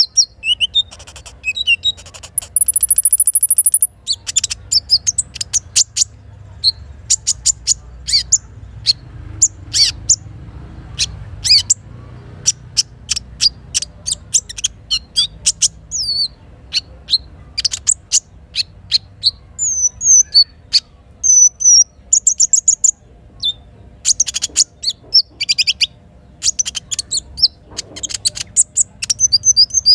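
Sogok ontong lure-call recording: rapid runs of sharp, high chirps and whistled notes, with a held buzzy trill about 2.5 seconds in. Under the birdsong runs a low, steady rumble of river water.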